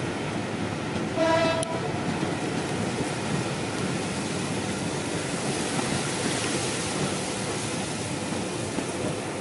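Rake of passenger coaches rolling past on the rails, with a short single toot from the diesel locomotive's horn up ahead about a second in.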